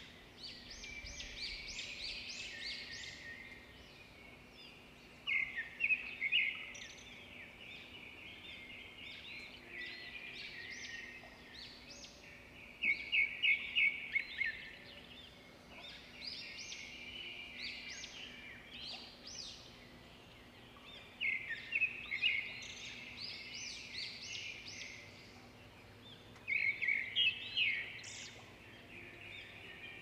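Songbirds singing: bright chirping phrases with quick trills, the louder ones returning every several seconds.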